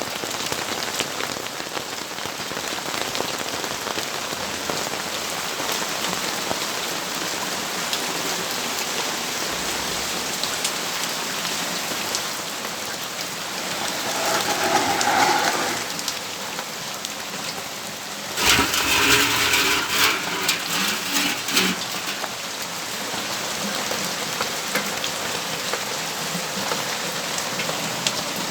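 Steady rainfall, a dense even hiss of drops. About halfway through, two louder swells of another sound rise over the rain for a few seconds each, the second with some pitched tones in it.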